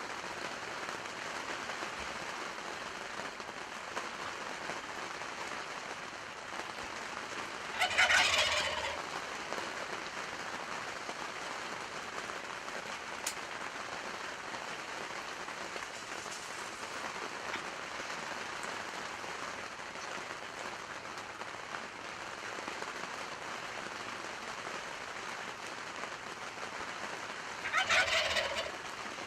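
Wild turkey toms gobbling twice, about twenty seconds apart. Each gobble is a rapid rattling call of about a second that falls in pitch. Steady rain hiss runs underneath.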